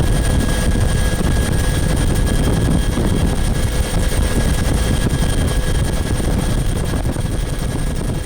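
Bell 212 twin-turbine helicopter running, a steady heavy rotor rumble with a constant high whine over it, easing slightly near the end.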